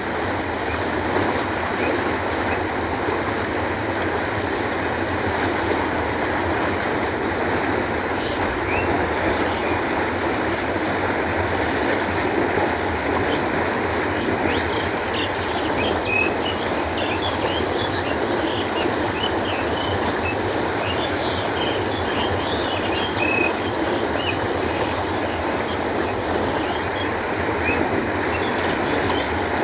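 Canal water flowing steadily with an even rushing sound, while short high bird chirps come and go through most of the second half.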